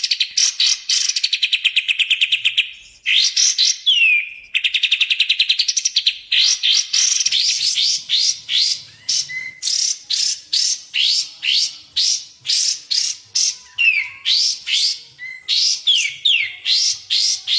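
Songbird song from a masteran training recording of kapas tembak and cucak jenggot: fast, high rattling trills at the start and again about five seconds in, then a long run of quick sweeping whistled notes, about two to three a second.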